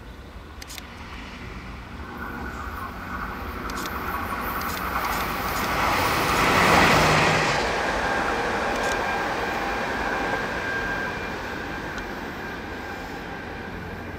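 A Nankai limited express 'Southern' electric train approaching and passing through the station without stopping: the rumble and wheel-on-rail noise build, peak about seven seconds in as the cars go by, then fade as the train runs off. A steady whine sits under the noise, and a few sharp clicks come during the approach.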